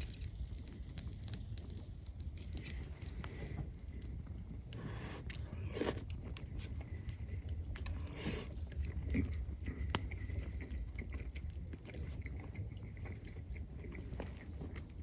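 A person eating: crunchy biting and chewing with scattered small clicks, over a steady low outdoor rumble.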